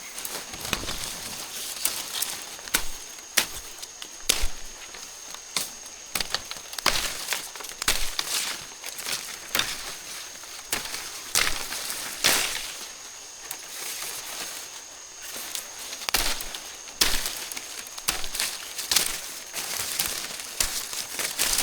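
Irregular crackling and snapping, many sharp cracks at uneven intervals, with a faint steady high whine underneath.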